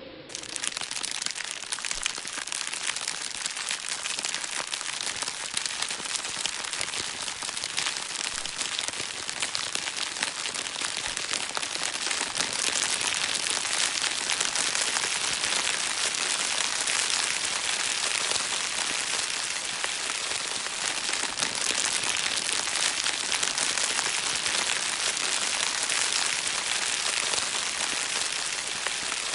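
Rain pouring down steadily, a dense hiss of countless small drop hits that starts abruptly.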